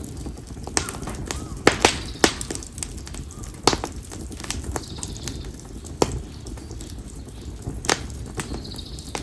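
Campfire of split konara oak logs burning with a steady low rumble of flame. Sharp crackles and pops break out at irregular intervals, about seven loud ones.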